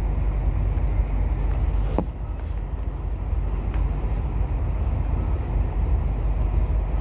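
Steady low rumble of a passenger train running along the track, heard from inside the carriage, with a brief knock about two seconds in.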